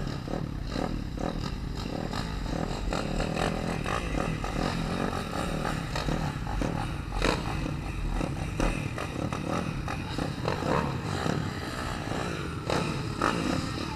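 Pit bike engine running hard and revving up and down on the track, its pitch rising and falling, with wind rumble on the microphone.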